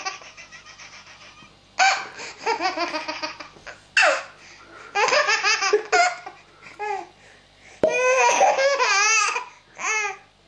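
A baby laughing hard in repeated fits, each a quick run of rapid pulses, with short gasping pauses between them.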